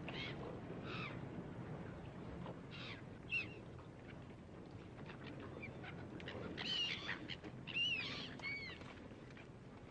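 Birds calling: a series of short, arching, high-pitched calls and chirps. The calls come in clusters, a few at the start, a couple around three seconds in, and the loudest group between about six and a half and eight and a half seconds in. A faint low steady hum runs underneath.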